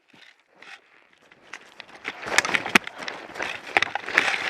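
Running footsteps with irregular sharp cracks and rustling, building up from quiet over the first two seconds.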